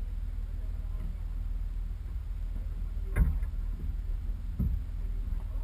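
Off-road 4x4 vehicle running with a steady low rumble, and two knocks about three seconds and four and a half seconds in.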